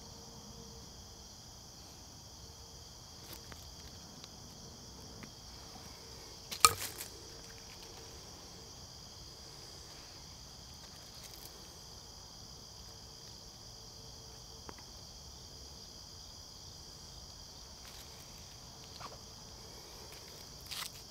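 Steady, high-pitched chorus of insects, with a few sharp clicks and knocks over it. The loudest knock comes about six and a half seconds in.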